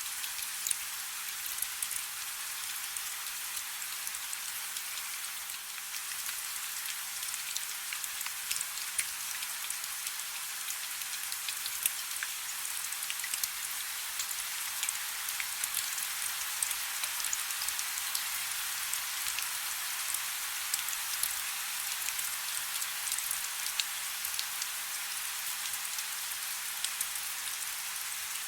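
Steady soft rain: a constant hiss with many small, sharp drop ticks scattered throughout.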